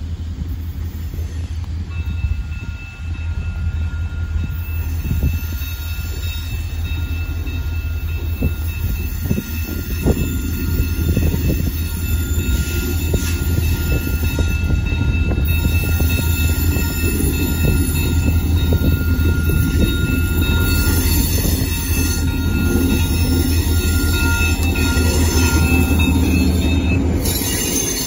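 CN diesel freight locomotives rumbling as they come around a curve and pass close by, growing louder. A steady high wheel squeal from the curved track runs through most of it, with wheels clicking over the rails as the train nears.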